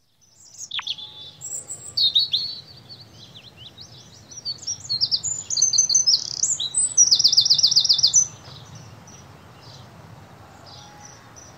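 Birdsong: a mix of short chirps and sweeping whistled calls, ending in a fast, even trill about seven seconds in. The birds then stop, leaving only a faint steady background noise.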